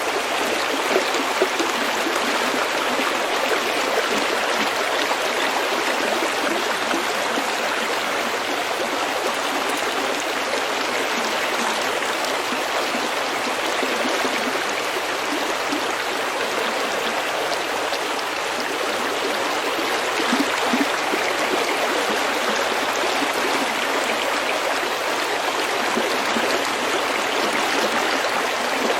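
A shallow stream running steadily over pebbles: an even rush of water, with brief slightly louder splashes now and then.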